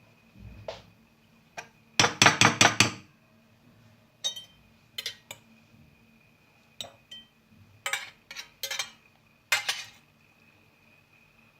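Kitchen dishes and cutlery clinking and clattering: a quick run of strikes about two seconds in, then scattered single knocks and clinks.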